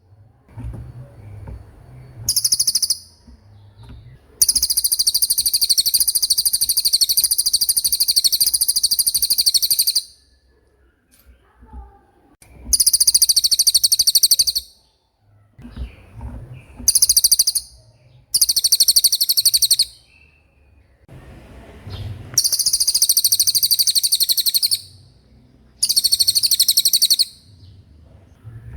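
Cililin songbird singing its fast rolling song: repeated bursts of a very high, rapid trill, the longest about six seconds and others one to three seconds, with short pauses between.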